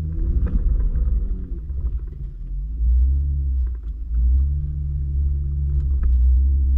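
Jeep Wrangler JK Rubicon's V6 engine working under load while crawling up rock, its pitch rising and falling with the throttle, over a heavy low rumble.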